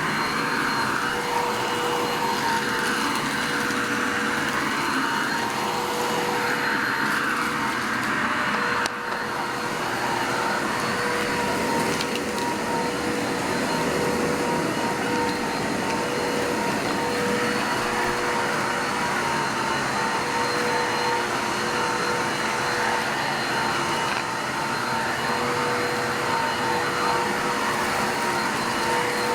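Bissell 3760-1 vacuum cleaner running steadily while vacuuming, its motor giving a constant whine over the rush of air. The sound drops briefly about nine seconds in.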